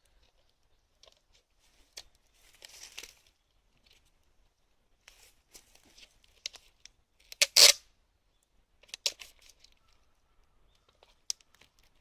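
Wood fire burning in a metal pail can, giving off scattered crackles and snaps with short rustling bursts between quiet gaps; the loudest snap comes about seven and a half seconds in.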